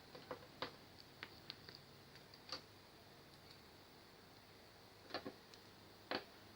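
Scattered light clicks and taps, such as small tools or parts being handled during a repair. There are several in the first second or so, one midway, a pair about five seconds in and a slightly louder click near the end.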